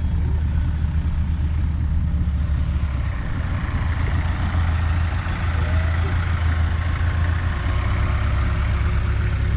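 A vehicle engine idling: a steady low rumble, with a rougher, higher noise building from about three seconds in.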